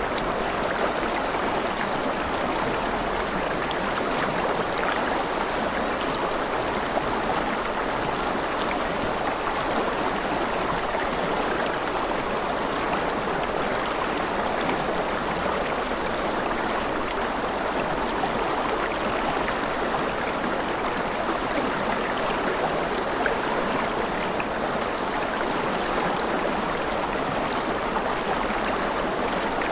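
Rushing river water flowing steadily, a constant even rush without breaks.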